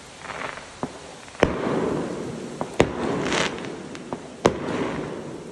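Aerial firework shells bursting: three loud booms about a second and a half apart, each followed by a lingering rumble and crackle, with fainter pops between them.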